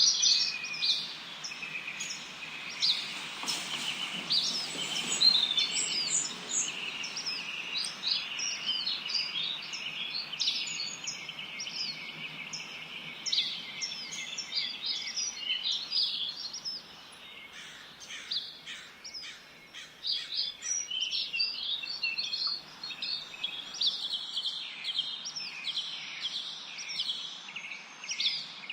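A chorus of many small birds chirping and twittering at once, short high calls overlapping densely, thinning out briefly about two-thirds of the way through.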